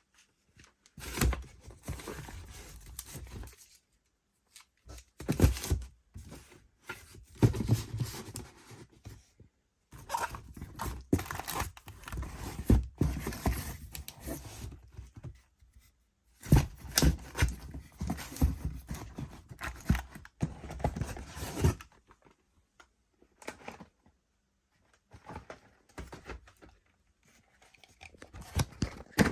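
Packaging being handled in a small room: bursts of rustling, tearing-like crinkling and knocks lasting a few seconds each, with short quiet gaps between them.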